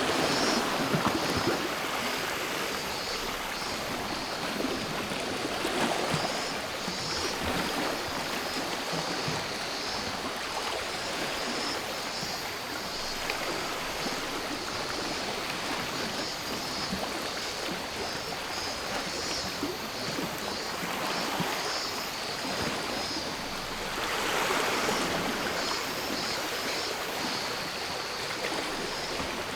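Gentle sea waves washing onto the shore, swelling louder every several seconds, most strongly near the start and again about three-quarters of the way through. Behind them cicadas drone steadily in a high, even buzz.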